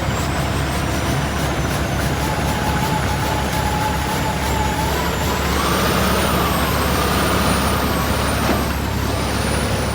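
Truck engine running with a steady low rumble, and a faint whine that rises a little about halfway through.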